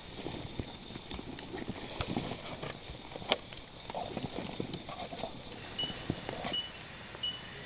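Irregular scuffs, rustles and light knocks, like footsteps or handling on the forest floor, with one sharp click about a third of the way in. Short high chirps repeat about once a second near the end.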